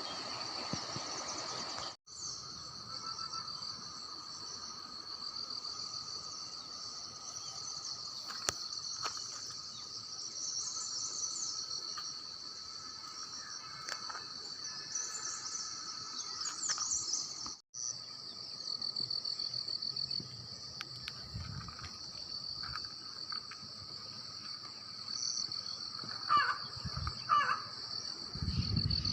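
Steady high-pitched insect chorus, continuous shrilling with a few short bird calls near the end.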